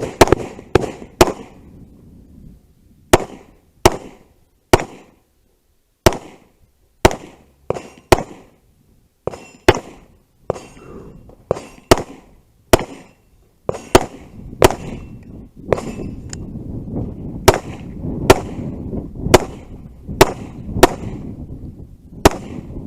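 A long string of gunshots from a 3-gun match course of fire, about thirty shots at an uneven pace of one or two a second, broken by short pauses. A faint ringing follows some of the shots.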